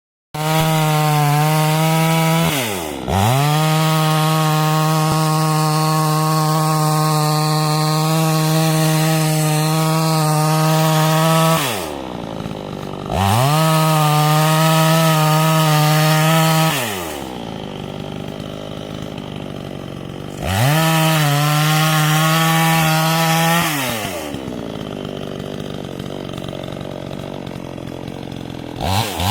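ECO 52-18 two-stroke petrol chainsaw cutting wood at full throttle in long stretches, dropping back to a low idle between cuts four times, with the longest idle near the end.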